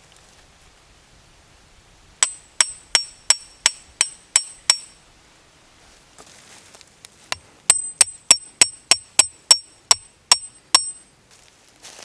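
Hammer striking a steel tent stake, each blow with a bright metallic ring: a run of about eight quick strikes, a pause, then a second, faster run of about eleven.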